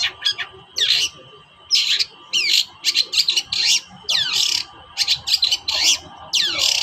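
Long-tailed shrike (cendet) singing in short, harsh calls, about one and a half a second, many of them sweeping down in pitch.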